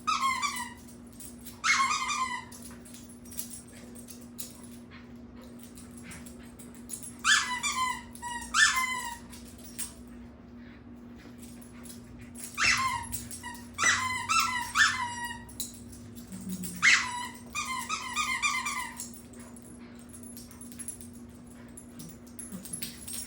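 Puppy giving short bouts of high-pitched whines and yelps, each call falling in pitch, with pauses of a few seconds between groups. A steady low hum runs underneath.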